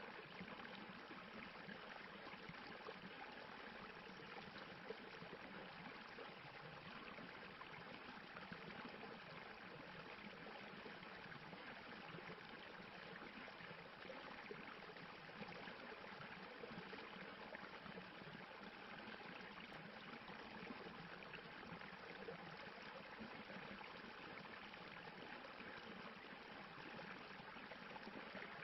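Stream of water rushing and splashing over rocks: a steady, even sound of flowing water with no breaks.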